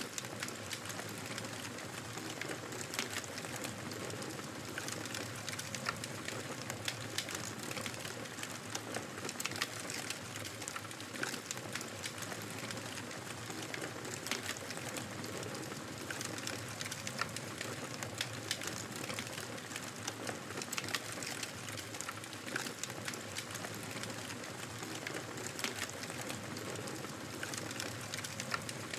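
Wood fire crackling in a fireplace: a steady hiss and rumble of burning with many small, sharp pops scattered irregularly throughout.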